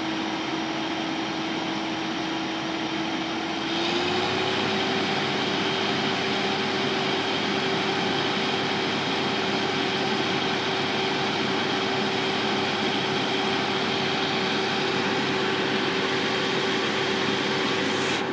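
Steady mechanical hum of a running machine. About four seconds in, its pitch steps up slightly and it gets louder, then it runs on evenly.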